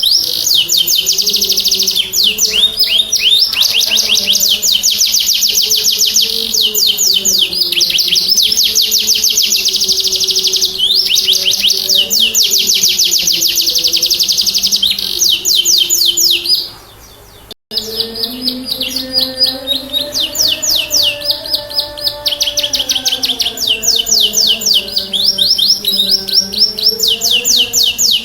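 Domestic canary singing a full, vigorous song in long rapid trills, each run of fast repeated notes changing to a new one every second or so. A soft, low, slowly gliding melody runs beneath it. The song breaks off briefly about 17 seconds in, then resumes.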